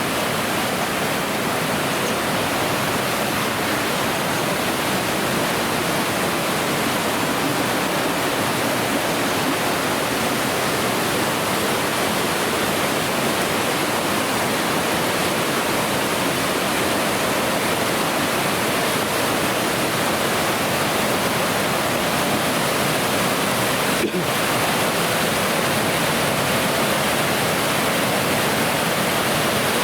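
Waterfall: a steady rush of falling water, with a momentary break about 24 seconds in.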